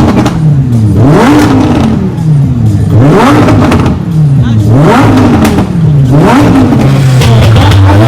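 Loud supercar engine being revved over and over, its pitch climbing sharply and falling back to idle about five times.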